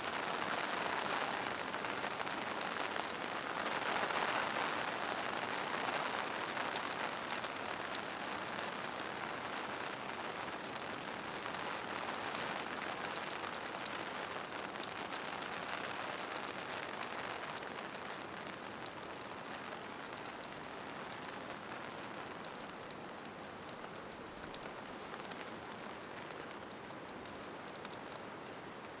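Steady rain falling in a forest, a dense even hiss of drops pattering on leaves and rocks, easing slightly in the second half.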